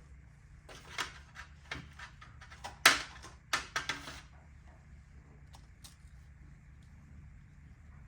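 Tools and engine parts being handled during engine teardown: a run of clicks and knocks over a few seconds, the loudest about three seconds in, over a faint steady hum.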